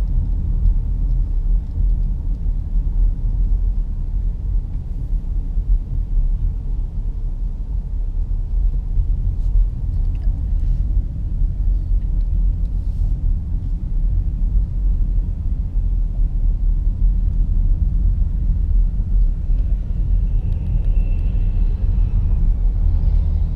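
Steady low rumble of road and engine noise inside the cabin of a moving 2017 Nissan Rogue SV AWD.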